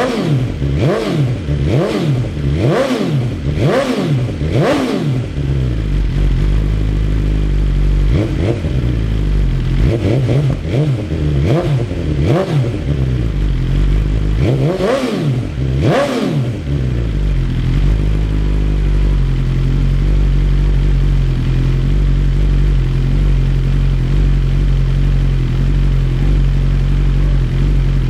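BMW S1000RR superbike's inline-four revved with quick throttle blips: a string of rises and falls in pitch in three bursts over the first sixteen seconds, the last two the biggest, then the engine settles to a steady idle.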